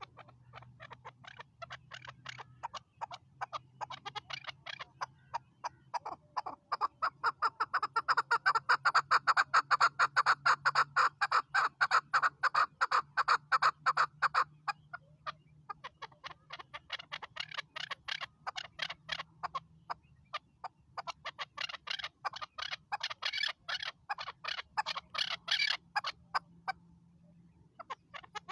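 Chukar partridge calling: a long run of rapid, sharp chuck notes, several a second, loudest about a third of the way in, with two short breaks before the series picks up again.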